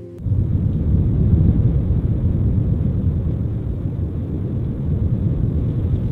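A loud, steady low rumble that starts abruptly about a quarter second in, like a vehicle running.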